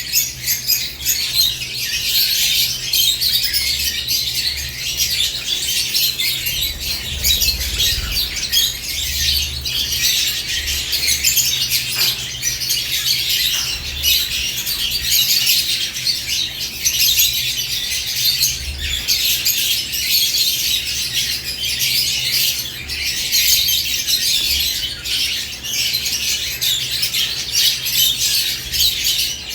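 A caged group of lovebirds chattering: many high-pitched chirps and calls overlapping without a break.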